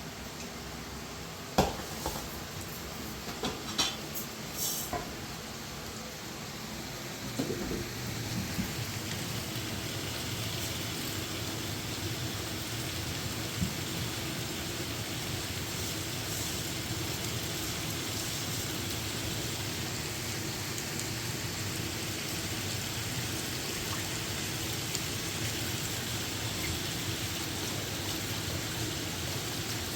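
A few sharp knocks and clatters, then steady rain hiss that sets in about a quarter of the way in and holds even.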